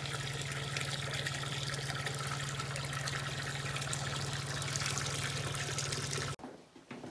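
Steady rush of running, trickling water with a low steady hum underneath. It cuts off abruptly about six seconds in.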